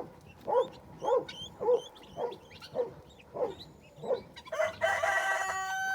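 Guinea fowl calling: a short call repeated about twice a second, with thin high peeps from a keet among them. A steadier, louder sound with held tones comes in near the end.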